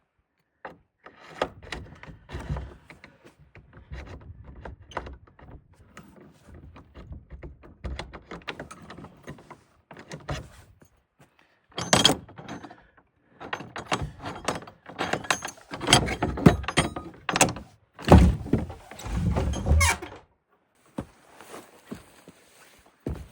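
A busy run of knocks, thuds and rattling clatter, as of objects being handled and moved about, with louder clusters about halfway through and again near the end.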